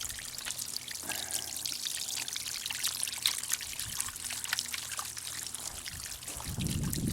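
Water fountain made from a concrete bird bath: water spills over the bowl's rim and trickles and splashes steadily into a rock-lined basin below. A brief low rumble comes near the end.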